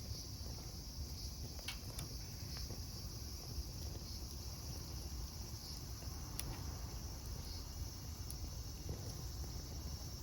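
Crickets chirping steadily in a high, even drone, over a low rumble, with a few sharp crackles about two seconds in and again past the middle.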